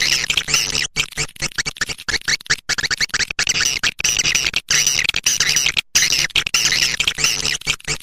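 Swiftlet lure call recording played for a bird house: dense, rapid twittering chirps of swiftlets, broken by many brief gaps, over a low steady hum.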